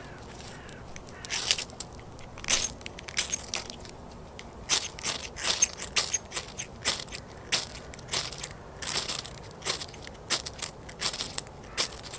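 A ferro rod scraped hard with a striker in a dozen or more quick, irregular strokes, throwing sparks onto resin tinder that does not catch.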